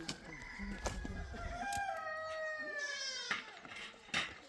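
A rooster crowing: one long call of about three seconds that drops in pitch at the end. A few sharp knocks come through, the loudest near the end.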